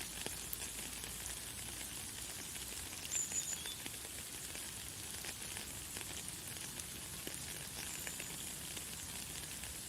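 Light, fine rain pattering steadily as a dense hiss of tiny drop ticks. A few brief high bird chirps come through, about three seconds in and again near the end.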